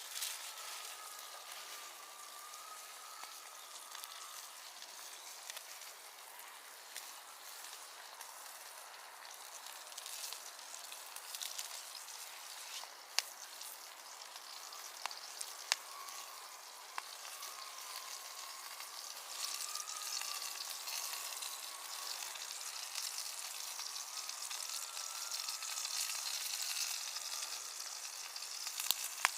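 Food sizzling as it fries over a campfire: a steady hiss broken by occasional sharp pops, with a faint wavering high tone now and then.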